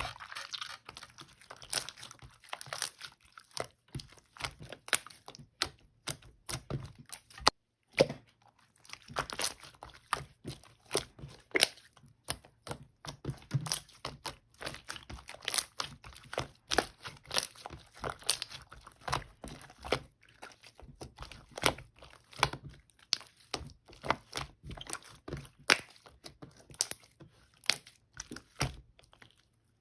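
Slime being pressed, stretched and folded by hand, giving a quick, irregular run of sharp clicks and crackles.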